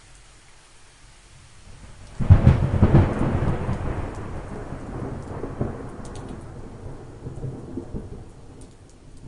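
A thunderclap breaks over light rain: a sudden crack about two seconds in, then a rolling rumble that slowly fades over several seconds.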